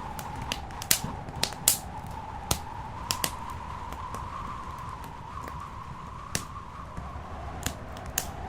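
Wood fire in a fireplace crackling, with irregular sharp pops, about nine of them louder than the rest, over a steady background rush and a faint wavering whistle.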